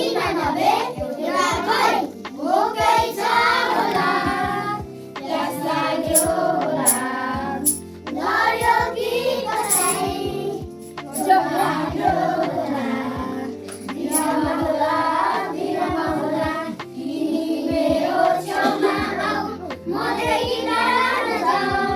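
A group of children singing with instrumental accompaniment, likely a hymn at a church service.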